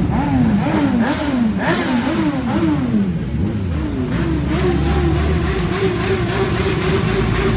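Superbike engines revved in quick throttle blips, the note rising and falling about twice a second, then settling into a steadier held rev about halfway through.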